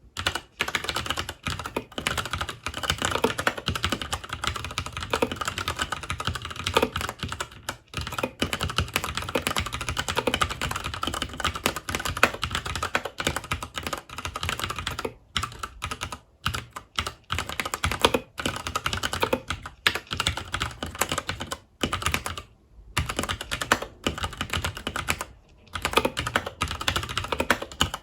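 Continuous fast typing on a FILCO Majestouch 2 Hakua tenkeyless mechanical keyboard with Cherry MX Brown switches, the key clicks running on with a few brief pauses.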